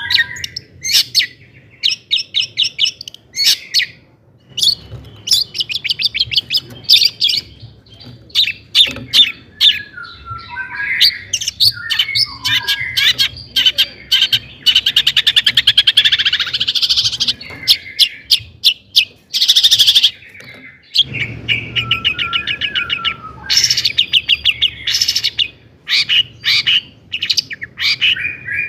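Long-tailed shrike (cendet) singing a fast, varied song: quick runs of sharp repeated notes, harsh rattling chatter, and short whistled slurs, with a brief pause about two-thirds of the way through.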